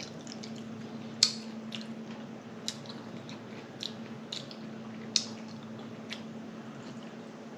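Close-up eating sounds: wet chewing with about seven sharp lip smacks scattered through, over a steady low hum.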